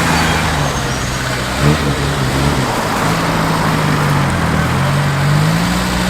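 Car engine running close by, its note wavering slightly up and down, with a short knock about two seconds in.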